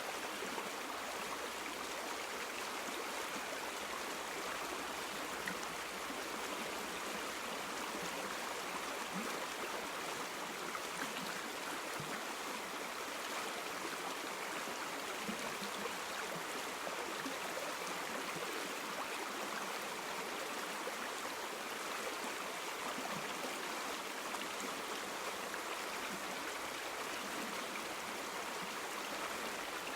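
River water flowing and babbling steadily, a continuous rushing with small gurgles and no other sounds.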